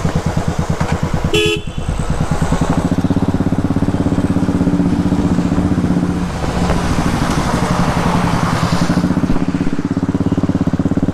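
Royal Enfield Stealth Black's single-cylinder engine running steadily under way, with its even rapid thump, and a short vehicle horn toot about a second and a half in.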